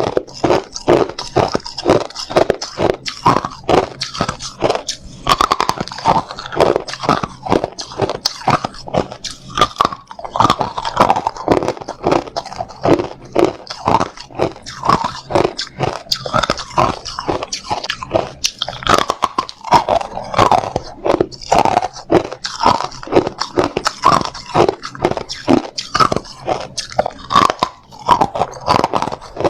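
Hard ice being bitten and chewed close to the microphone: a rapid run of sharp, loud crunches, several a second, with short pauses between mouthfuls.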